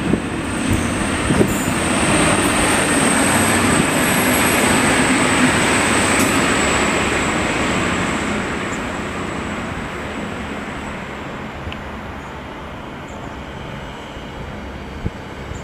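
A train passing, growing louder over the first few seconds and then fading away, with a thin, steady, high-pitched squeal over the first two-thirds.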